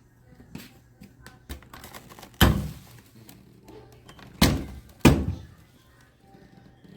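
Three loud thunks, the first about two and a half seconds in and the last two half a second apart, with lighter clicks and knocks between them.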